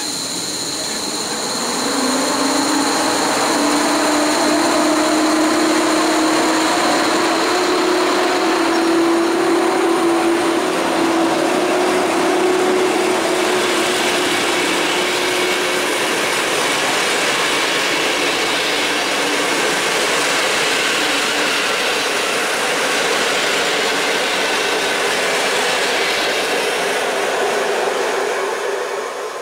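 PKP EP07 electric locomotive pulling a passenger train away: a whine rising in pitch as it gathers speed, then the steady noise of the coaches' wheels running on the rails as they pass.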